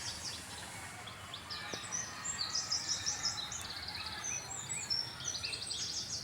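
Several small birds chirping in quick, high trills of rapid notes, busiest in the second half, over steady low background noise.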